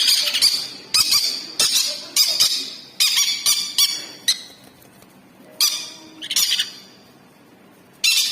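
Conure chicks squawking: a string of harsh, raspy calls, one or two a second, with a couple of short pauses, typical of begging during hand feeding.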